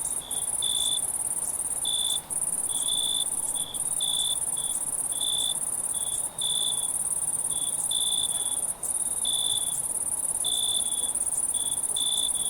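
Crickets chirping at night: a continuous high trill with short, lower chirps repeating about every half second over it.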